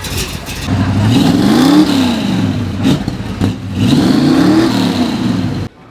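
Chevrolet C10 pickup's engine revved twice, the note climbing and dropping back each time, with the sound cutting off suddenly near the end.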